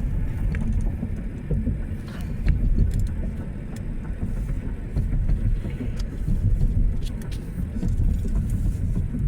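Steady low road rumble of a moving car heard from inside the cabin.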